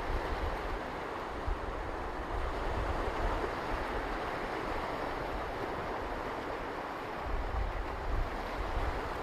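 Ocean surf washing on a beach, a steady rushing wash of waves with a deep low rumble that swells near the start and again from about seven seconds in.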